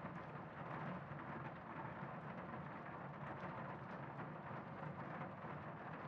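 Faint, steady background noise with no distinct events.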